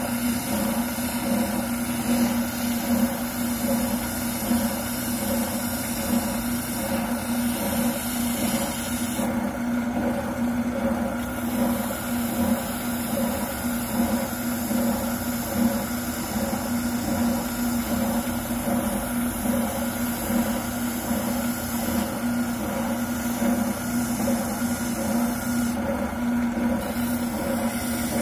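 Wilton oscillating sander running steadily while a shotgun buttplate is pressed against it and sanded down to fit the stock: a constant motor hum under the hiss of abrasive on the workpiece. The hiss thins out briefly about nine seconds in and again near the end, as the piece comes off the sander.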